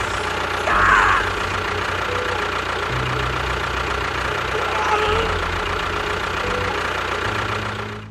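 Engine running with a knocking chug, its pitch stepping up and down every second or two.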